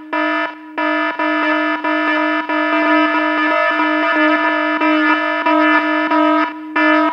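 A loud, buzzy electronic tone held on one pitch with a fast flutter through it, cut by short gaps near the start and near the end.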